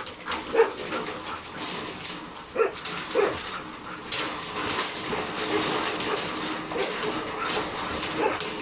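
Pet dogs giving a few short yips or whimpers, three brief calls in the first few seconds, over a steady background hiss.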